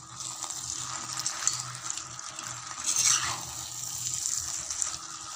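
Dry mutton fry sizzling in a non-stick pan while a spatula stirs it, with one louder stroke about three seconds in.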